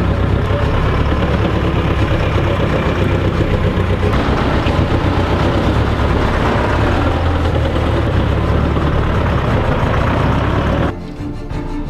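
Tractor engine running steadily with a deep low drone, cutting off abruptly near the end.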